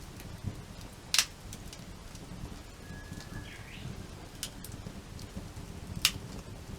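Wood campfire burning with a low steady rumble and small crackles, and two sharp loud pops of burning wood, about a second in and near the end.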